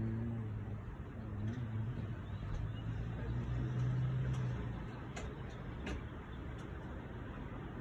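Wind blowing against the microphone with a passing motor vehicle's engine droning low under it; the engine hum fades out about four and a half seconds in, leaving only the wind and a few faint clicks.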